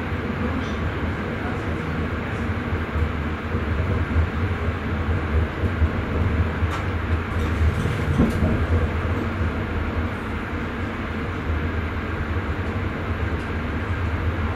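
Steady running rumble of a Sprinter electric passenger train heard from inside the driver's cab, with a few faint clicks and a short knock about eight seconds in.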